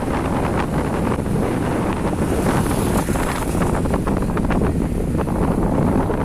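Steady wind rushing over the microphone of a phone filming from a moving motorcycle, with a low rumble from the ride underneath.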